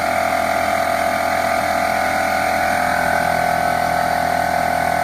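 Bostitch BTFP02012 oil-free pancake air compressor running steadily, its motor and pump giving a loud, even drone with a strong steady tone.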